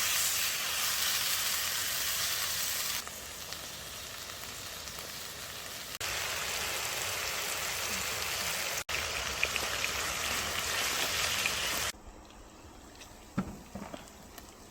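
Food sizzling as it grills. The hiss changes level abruptly every few seconds, then drops to a much quieter background with a few light clicks near the end.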